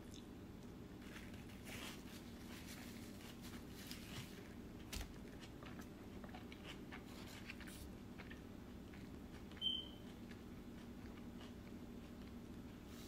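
A person biting and chewing fries and brisket, with soft mouth sounds and small crunches over a low steady hum. There is a knock about five seconds in and a brief high-pitched squeak just before ten seconds.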